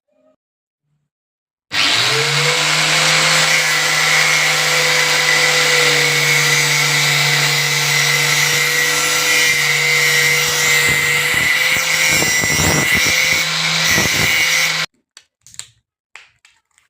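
Angle grinder switched on, spinning up within a split second to a steady high whine and running hard for about thirteen seconds, being used to cut a plastic toy phone. The sound turns rougher and more uneven in its last few seconds, then stops abruptly, followed by a few light clicks.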